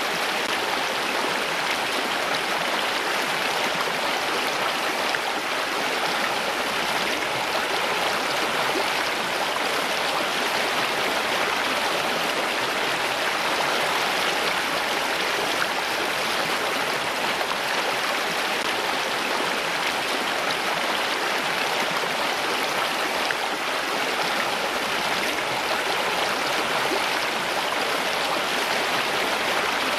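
Flowing water, a steady unbroken rush like a stream running over rocks.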